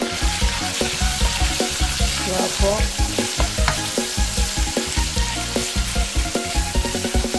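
Ground pork sizzling in hot oil in a wok with garlic and chili. The sizzle starts suddenly as the meat hits the oil and keeps on while a wooden spatula stirs and breaks it up.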